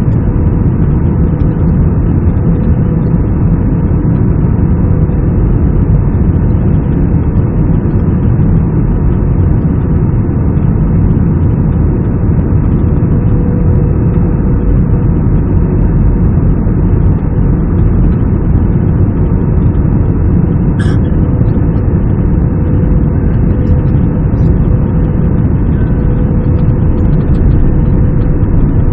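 Steady, loud cabin noise of an Airbus A320 in flight: engine and airflow rumble with a constant hum. There is a single click about 21 seconds in, and the hum drops slightly in pitch near the end.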